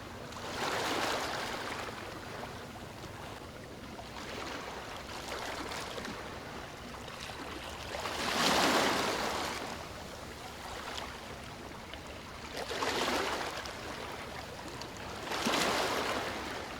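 Small waves washing onto a beach: the surf swells and falls away about five times, the strongest wash a little past the middle.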